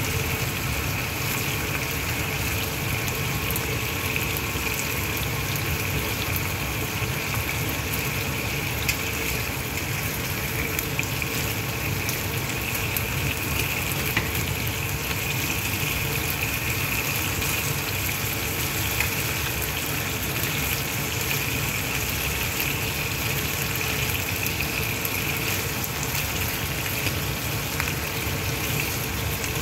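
Chicken breasts sizzling steadily in oil in a nonstick frying pan, a continuous crackle with a few faint clicks.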